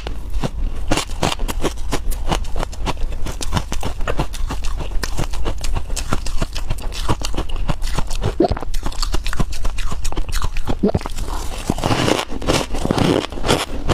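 Freezer frost being bitten and chewed: a dense, irregular run of crisp crunches over a steady low hum.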